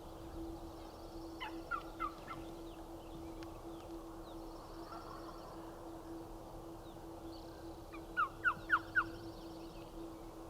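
Wild turkey gobbling twice, about six seconds apart, each gobble a quick run of falling notes, heard at a distance.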